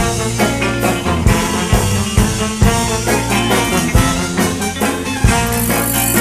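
A band playing an instrumental passage in a swing style: horns over a steady drum beat.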